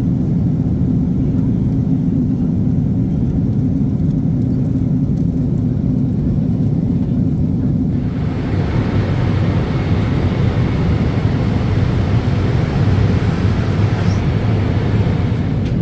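Airliner cabin noise of a Boeing 777-300: a steady low rumble, with a higher rushing hiss joining about eight seconds in.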